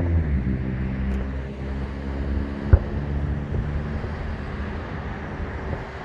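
Road traffic: a passing vehicle's engine drone drops in pitch as it goes by, then settles into a steady low rumble. One sharp bang about three seconds in, a distant firework burst.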